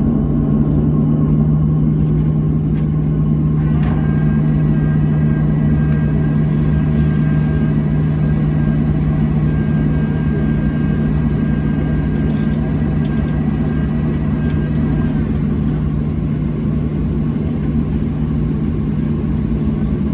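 Steady low drone of a Boeing 737-700's cabin during pushback. A faint high whine comes in with a small click about four seconds in and fades out about eleven seconds later.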